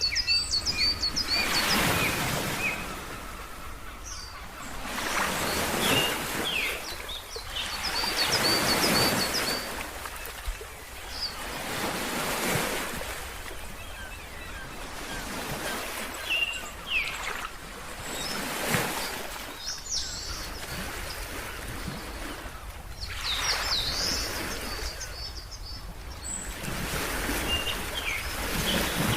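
Ocean waves washing in and falling away in swells every few seconds. Small birds chirp over them in short runs of quick repeated high notes, several times through.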